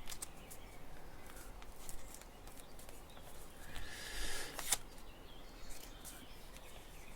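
Sheet of kami origami paper being handled and creased: soft rustles and small crinkling clicks, with a louder crinkle ending in a sharp crease snap about four and a half seconds in.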